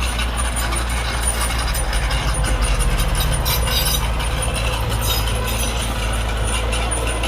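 Heavy diesel earthmoving machinery running: a steady low engine drone with metallic clanking and rattling over it. For a couple of seconds in the middle the engine note pulses harder.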